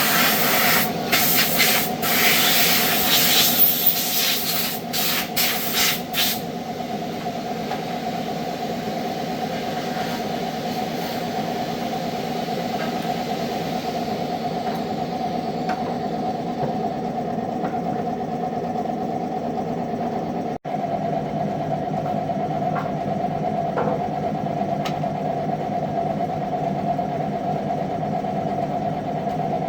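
A machine motor running steadily with an even hum, with several short bursts of hissing over the first six seconds.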